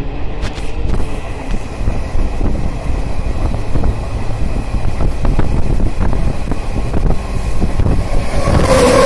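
Moving train heard from at its window: a steady low rumble of the running train with wind buffeting the microphone and frequent small rattles and clicks. Near the end the noise swells louder, with a brief hum.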